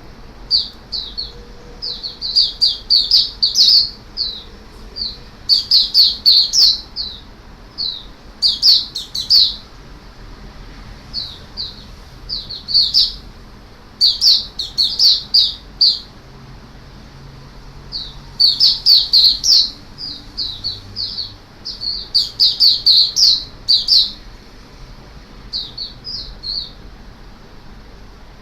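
A caged white-eye (mata puteh) singing: runs of rapid, high chirping notes in bursts of one to two seconds, repeated every few seconds.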